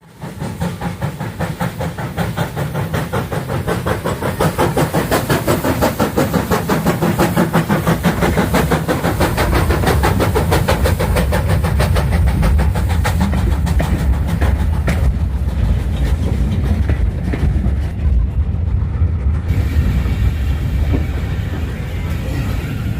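Steam locomotive working, its exhaust beating in a steady rhythm of chuffs. From about nine seconds in, a heavy low rumble takes over and the beats fade.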